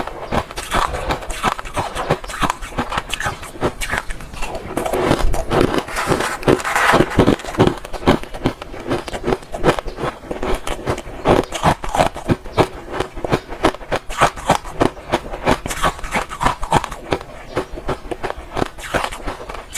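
Crunchy ice being bitten and chewed close to the microphone: a fast, irregular stream of crunches and cracks, busiest about a third of the way in.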